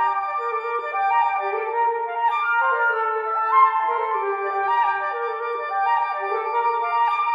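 Flutes playing classical music together, several overlapping lines of quick and held notes with nothing in the low register.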